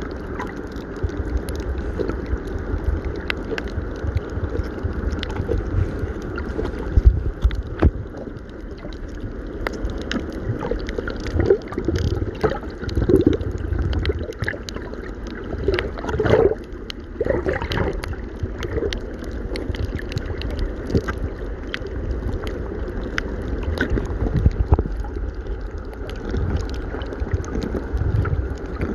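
Wind buffeting the microphone over a steady low rumble, with scattered small knocks and a busier, louder stretch around the middle.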